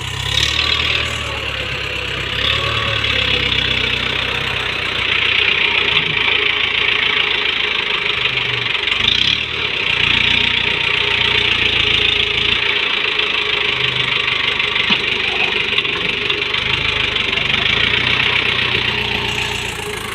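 Heavy earthmoving machinery with a diesel engine running steadily, under a loud steady high-pitched mechanical noise.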